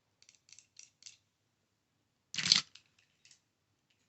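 Fingernails tapping on a die-cast toy car: about four light, quick ticks, then one louder, longer scrape about two and a half seconds in, followed by a couple of faint ticks.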